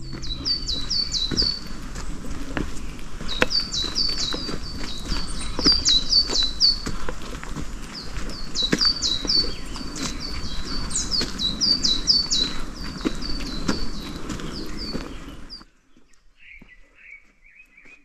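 Forest birds singing in repeated quick phrases of short high chirps, over footsteps on a dirt path that give scattered sharp crunches. The sound cuts off abruptly about three seconds before the end, leaving only a faint, lower bird call.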